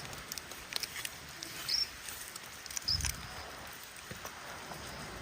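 A small bird giving a few short, high peeps, four in all, over faint pattering of rain drips.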